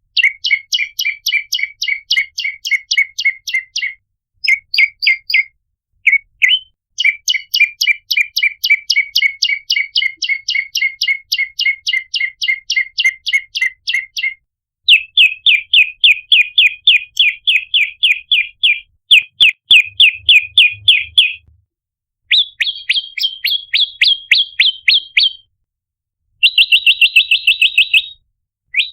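Prenjak lumut (red-headed prenjak) calling in fast, even trains of sharp chirps, about five to six a second. The trains last from under a second to about seven seconds, separated by short pauses, and the pitch changes from one train to the next.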